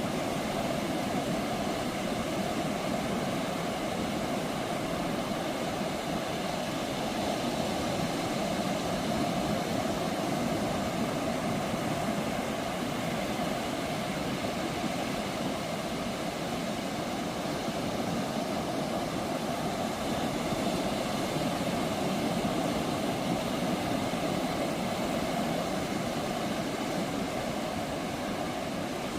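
Ocean surf breaking on a beach: a steady, continuous rush of waves that swells slightly now and then.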